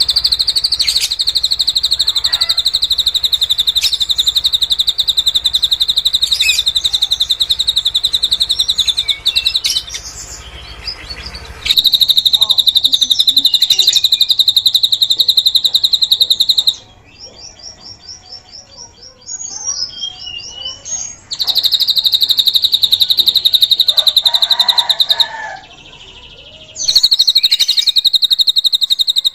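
Drongo singing a long, very rapid, high-pitched trill mimicking the cililin's song, repeated in phrases of several seconds. Between phrases come gaps of softer, varied chirps: about ten seconds in, about seventeen seconds in, and about twenty-five seconds in.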